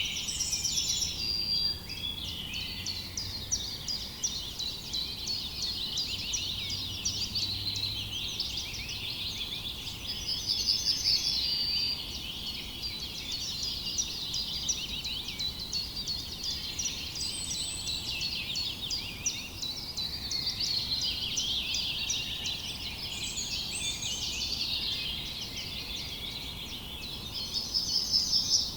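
Many small birds chirping and singing together in a dense, continuous chorus, with brief rapid trills standing out at the start, about ten seconds in, and at the end.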